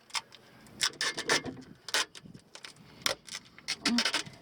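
Duct tape being pulled off the roll and wrapped around an exhaust pipe, in a string of short, irregular ripping pulls.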